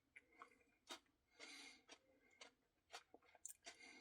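Near silence with a few faint clicks and soft mouth sounds of someone eating ice cream from a cup with a spoon.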